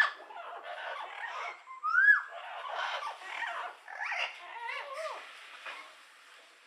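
Bird calls: a busy run of chattering notes mixed with whistled glides, the loudest a note that rises and falls about two seconds in, and a cluster of falling notes near the end before the calling fades.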